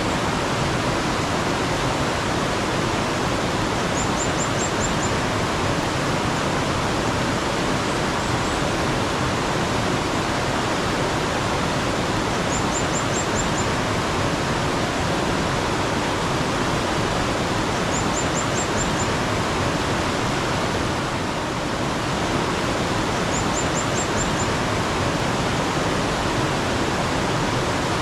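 Steady rush of flowing mountain stream water. About every five or six seconds, a small bird sings a short, very high trill of about five quick notes.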